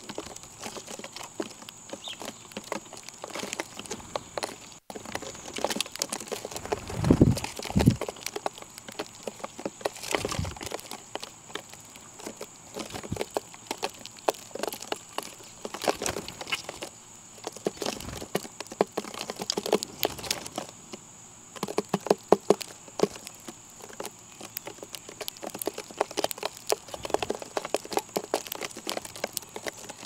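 Birds pecking at scattered feed on a hard surface: many quick, irregular taps and clicks, with a few louder low thumps about seven to eight seconds in.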